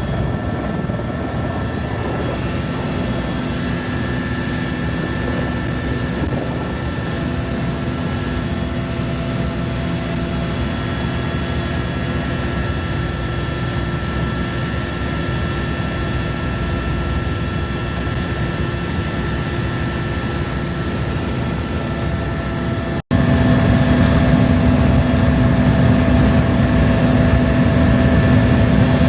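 Helicopter in flight: steady rotor and engine noise with several steady whining tones. About 23 s in it cuts off for an instant and comes back louder.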